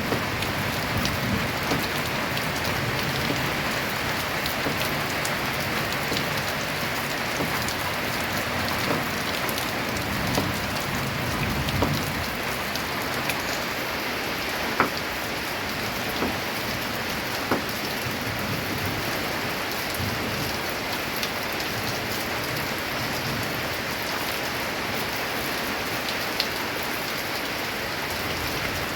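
Steady heavy rain drumming on a corrugated tin roof, with scattered louder single drops ticking on the metal.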